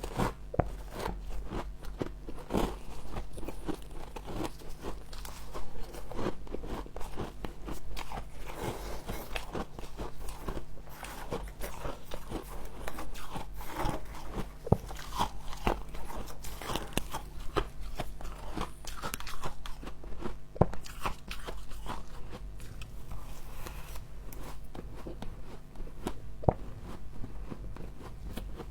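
Close-miked biting and chewing of soft frost, with dense, irregular crackly crunches throughout. A steady low hum runs underneath.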